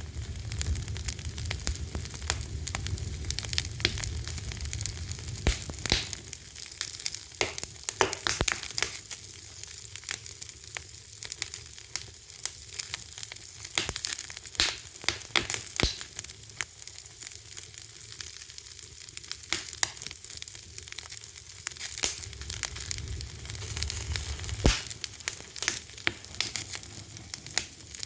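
Fire crackling: a steady hiss broken by frequent, irregular sharp pops, with a low rumble that comes and goes.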